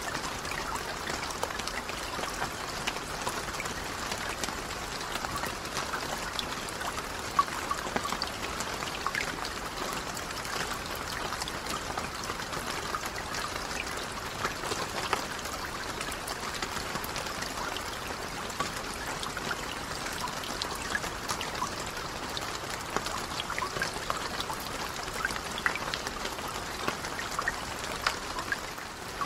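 Steady rain falling on a lake: an even hiss of rain with a dense patter of individual drops splashing on the water surface.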